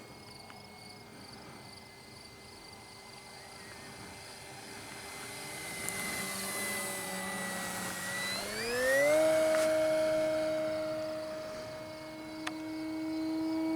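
Electric motor and propeller of an E-flite Cessna 150 Carbon-Z radio-controlled model plane in flight, a steady whine that jumps up in pitch and gets louder about eight or nine seconds in, then holds at the higher pitch.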